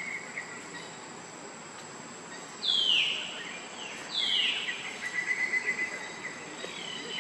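Bird calls: two short, loud whistled calls a second and a half apart, each falling in pitch, then a rapid trill, over a steady outdoor hiss.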